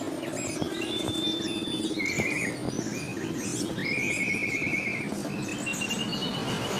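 A caged songbird singing: a held high whistle, then short buzzy trills, and near the end a long steady whistle that rises slightly.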